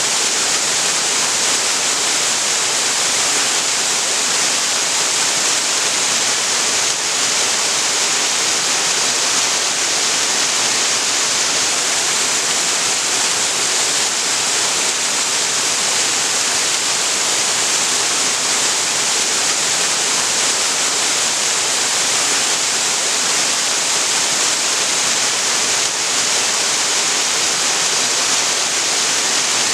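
Waterfall pouring steadily onto rock and water: a constant, even rush with a bright hiss and no changes.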